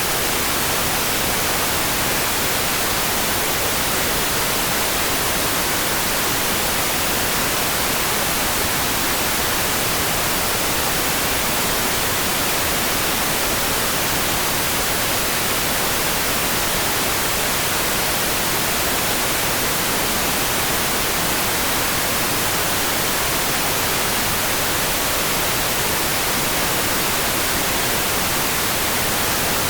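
Steady, unchanging hiss of a rain-for-sleep sound track. It is an even, bright noise with no single drops, thunder or other events standing out.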